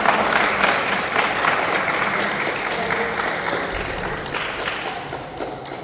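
Crowd of spectators applauding, many hands clapping at once. The applause fades gradually toward the end.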